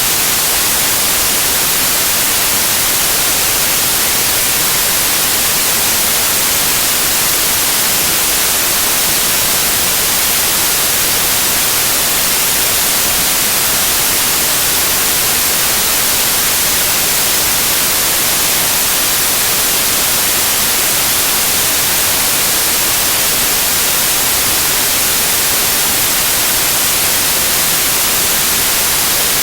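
Loud, steady white noise: an even, unchanging hiss, brightest in the high frequencies.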